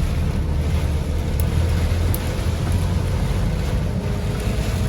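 Strong storm wind buffeting the microphone: a steady low rumble with a faint hiss above it.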